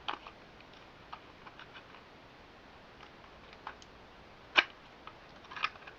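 Scattered light clicks and taps of plastic being handled, a Beyblade top and its clear plastic packaging insert, with one sharper click about four and a half seconds in.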